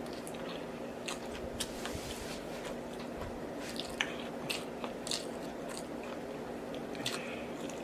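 Close-miked chewing of a mouthful of fast food: wet smacking and crunching with many short mouth clicks, over a faint steady hum.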